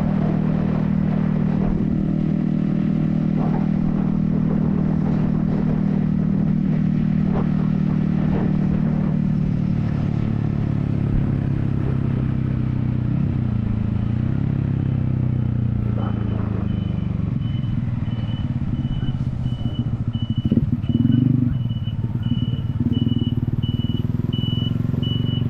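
Yamaha XSR155's 155cc single-cylinder engine running at a steady cruise, then dropping in pitch about halfway through as the bike slows. From about two-thirds of the way in, a high electronic beep repeats about twice a second.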